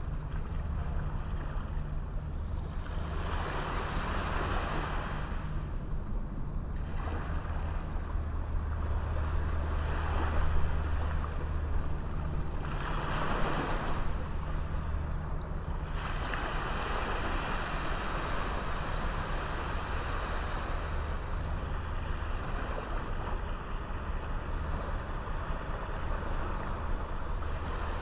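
Sea waves washing onto a small beach, the surf swelling and falling back every few seconds over a steady low rumble.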